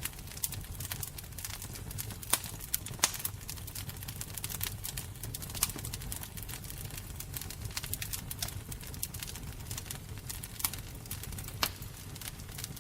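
Fire crackling over a steady low rumble, with many small clicks and a few sharp pops, the loudest two about two and three seconds in.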